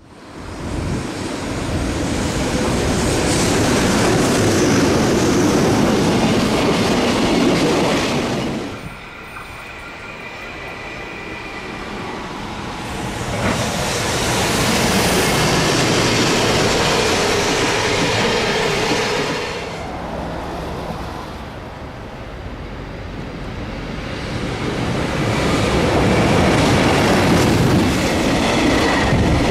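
Freight train passing at speed: an EF210 electric locomotive hauling empty oil tank wagons, the wheels clattering over the rail joints. The loudness swells and eases twice as the wagons run past.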